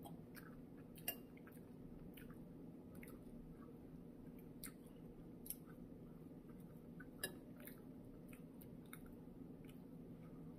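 Faint chewing and small clicks of someone eating soup, with three sharper clicks standing out, over a low steady hum.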